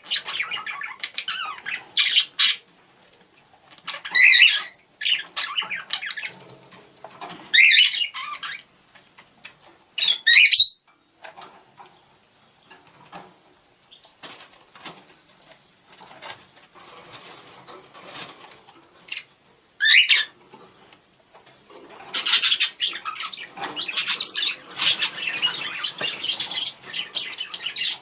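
Budgerigars calling to one another: sharp chirps and a few loud rising contact calls, then a dense run of warbling chatter near the end.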